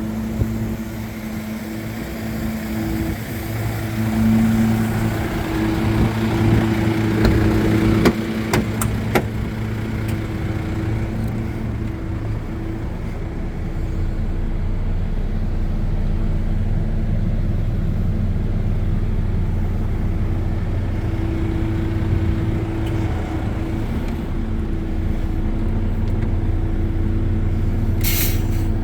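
MAN TGA 35.440 truck's diesel engine running steadily, growing a little louder and deeper about halfway through. A few sharp clicks come around eight to nine seconds in, and a short hiss near the end.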